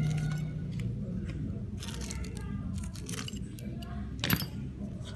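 Small metal clicks and taps of screwdrivers and tiny screws while an iPhone 7 is being taken apart, with one sharper click about four seconds in, over a low background hum.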